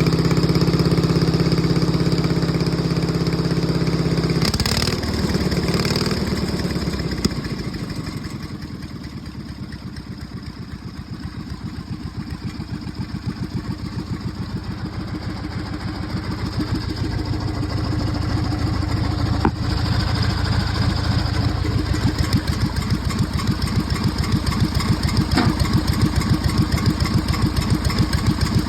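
Deere 400 lawn tractor engine running fast and steady, then throttled down about five seconds in to a slow idle where the single firing strokes can be picked out. It gradually picks up speed and gets louder again over the last ten seconds.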